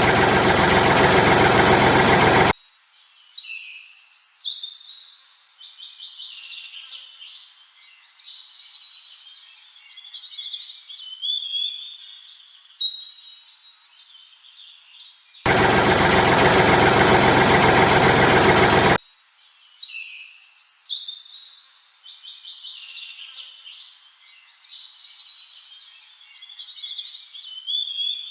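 Birds chirping and singing, a looped nature-ambience track whose pattern repeats. It is cut in twice by a loud, steady engine noise: at the start for about two and a half seconds, and again for about three and a half seconds past the middle.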